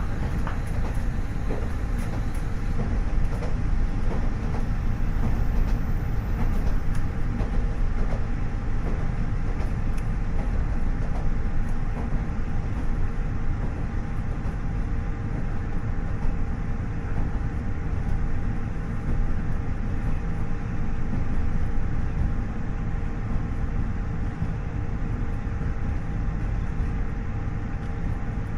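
KiHa 40 series diesel railcar under way, heard from inside the car: a steady low rumble from its DMF15HSA diesel engine and the wheels on the rails, with a steady whine under it and a few clicks in the first several seconds.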